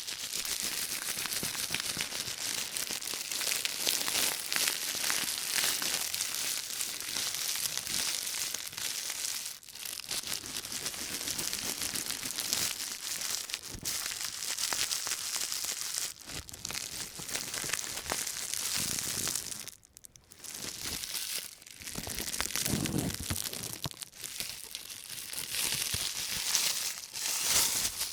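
Thin white plastic carrier bag crinkling and crackling as it is crumpled in rubber-gloved hands, a dense continuous rustle with brief pauses about 10 and 20 seconds in.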